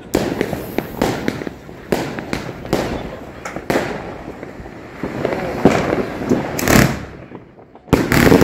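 Fireworks going off: sharp bangs about once a second with crackling between them. A short lull comes a little before the end, then a loud bang.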